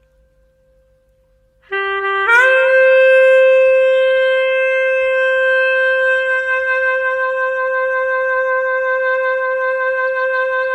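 Clarinet comes in about two seconds in with a short lower note, slides up and holds one long steady note for most of the rest.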